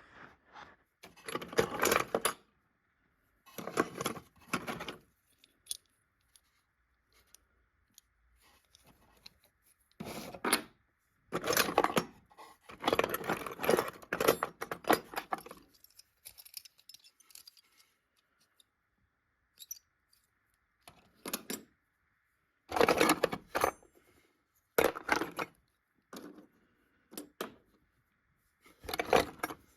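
Small metal pieces rattling and clinking in irregular bursts of a second or two, with short pauses between them.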